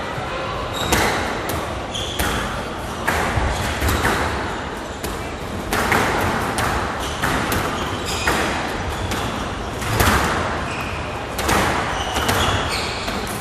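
Squash rally: the ball struck by rackets and hitting the court walls in sharp, echoing impacts, irregularly spaced about every half second to a second and a half, with short high squeaks of court shoes between the hits.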